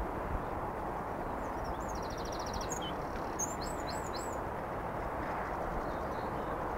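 Steady low rush of open-air background noise, with a small bird's short rapid trill about two seconds in, then a few quick high chirps.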